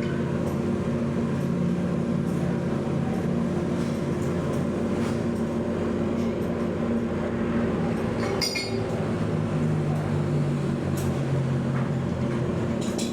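A steady low mechanical hum, like a motor or engine running, with a few light clicks and one sharp metallic clink that rings briefly about eight and a half seconds in.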